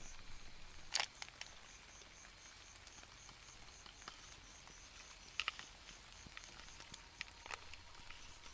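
Scattered raindrops tapping on a tent, with sharper ticks about a second in and around five and a half seconds in, over an insect chirping in a steady high pulse about four times a second.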